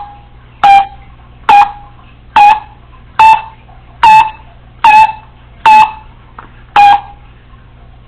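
African grey parrot repeating a short, loud, pitched call nine times, just under a second apart, each one the same, with a sharp start.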